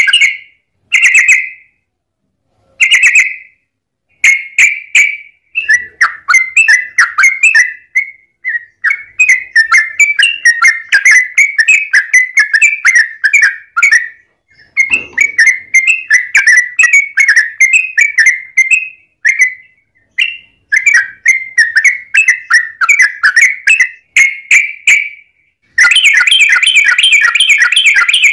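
Yellow-vented bulbul singing rapid, bubbling chattering phrases, a few short ones and then long rolling runs with brief pauses between them, unbroken near the end.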